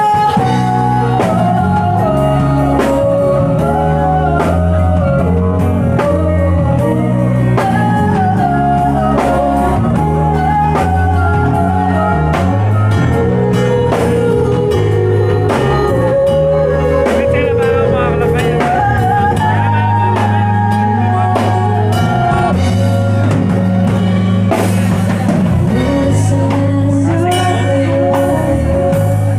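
A band playing a song, with a sung melody over drum kit, bass and guitar.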